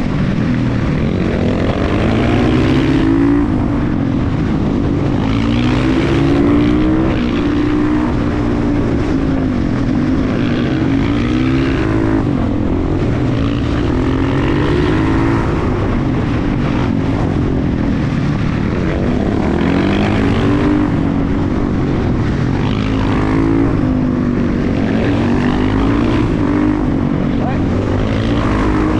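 KTM 350 EXC-F supermoto's single-cylinder four-stroke engine being ridden hard, its pitch climbing and dropping again and again as the rider accelerates and backs off.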